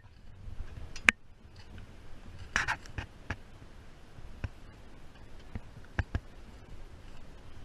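Sharp clicks and knocks, a dozen or so at uneven intervals, over a faint low rumble.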